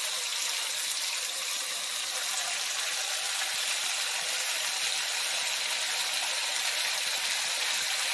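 Pork strips and sauce frying in a hot wok, a steady sizzle as stir-fried vegetables are tipped in on top.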